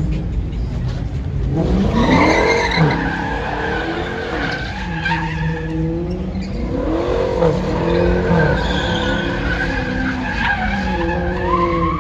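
A car's tires squealing as it slides under power, the screech swooping up and down in pitch in repeated waves over the steady rumble of the engine.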